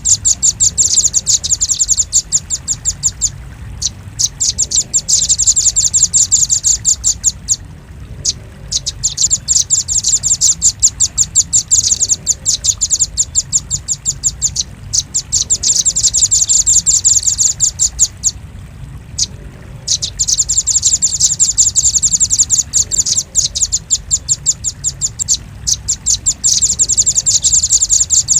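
Velvet-fronted nuthatch calls: long runs of rapid, sharp, high-pitched chipping notes, repeated in phrases of several seconds with short breaks between them, played as a lure call.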